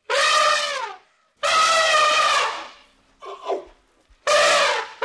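Baby elephants trumpeting: three loud, high calls of about a second each, the first falling in pitch at its end, with a shorter, fainter call between the second and third.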